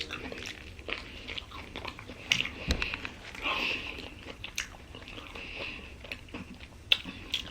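Close-up mouth sounds of someone biting and chewing a Philly cheesesteak sub sandwich: irregular wet smacks and clicks, a little louder about halfway through.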